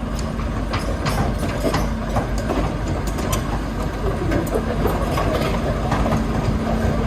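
Heavy diesel engine running steadily under the work, with scattered clanks and knocks from the machinery.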